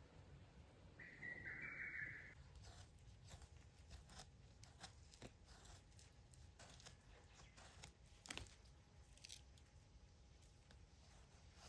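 A bird calls once, a short note about a second in, then faint scattered clicks and rustles of small things being handled.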